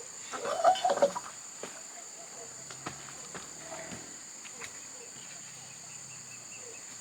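Steady high-pitched chirring of an insect chorus, with a short burst of loud knocking and clatter about half a second to a second in, then a few scattered single clicks.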